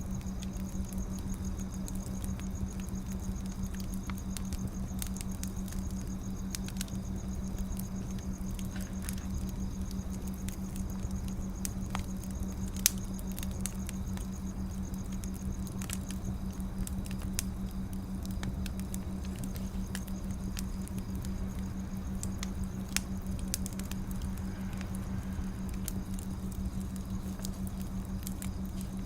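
Wood fire crackling: scattered sharp pops and snaps, a few of them louder, over a steady hiss, with a constant low hum underneath.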